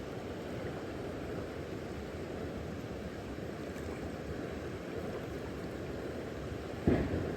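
Steady low rumbling outdoor background noise, with one sudden thump near the end.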